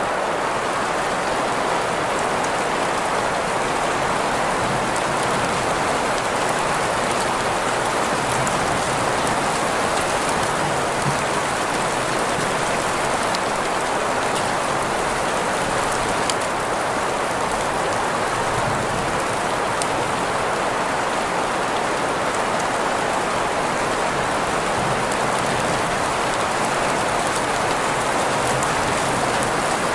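Steady rain sound blended with green noise, an even hiss strongest in the middle range, with faint scattered drop ticks and no change in level.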